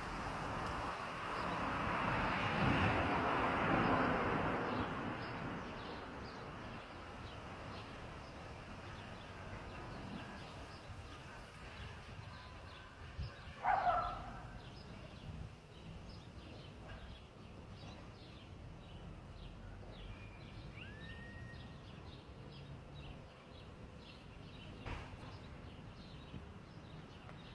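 Outdoor ambience with birds calling. A swell of rushing noise rises and fades in the first few seconds. About halfway through comes a short loud call that falls in pitch, and later a brief curving whistle, over faint scattered high chips.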